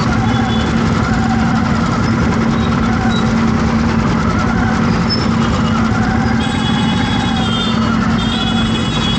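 Road traffic with vehicle engines running, a loud, steady noise with a constant low hum. Brief high-pitched tones come in about two-thirds of the way through and again near the end.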